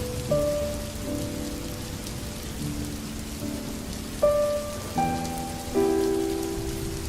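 Steady rain with a slow, gentle instrumental melody over it: single pitched notes about every second, each starting sharply and fading away.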